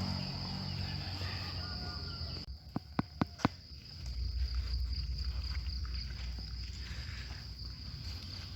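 Steady high-pitched drone of forest insects, with four sharp clicks in quick succession about three seconds in, then a low rumble.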